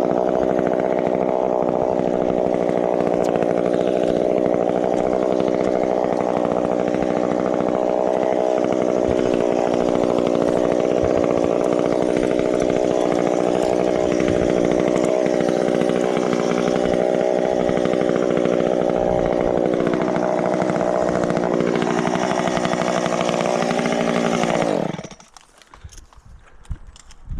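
Chainsaw running at high, steady revs with a few dips in pitch, then cutting out abruptly near the end.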